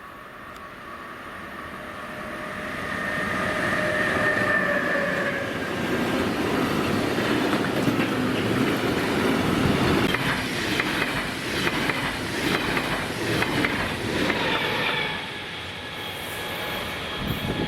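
A train approaching and passing close by. It builds up over the first few seconds with a whine, then comes a long run of rhythmic wheel clatter over the rail joints. The sound dips and swells again near the end.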